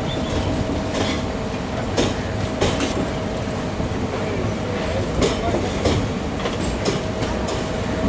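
Passenger train running along the track: a steady low rumble with irregular clicks and knocks of the wheels over the rail joints, and a faint steady hum.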